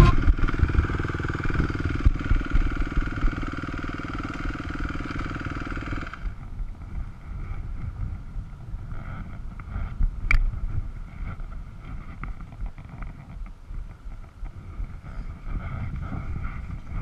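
Dirt bike engine running; the sound drops abruptly about six seconds in and goes on quieter, with a single sharp click near the middle.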